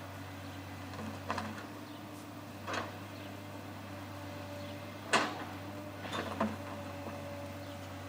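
Case excavator's diesel engine running steadily, with a handful of short metallic clanks and knocks, the loudest about five seconds in.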